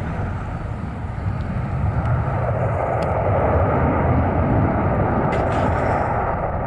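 Airplane engine noise: a dense rumble with a faint steady whine that grows louder over the first few seconds, then eases slightly near the end.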